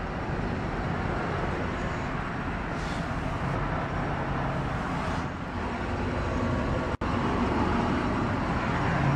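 Steady motor-vehicle noise, a continuous rumble and hiss, with a brief dropout about seven seconds in.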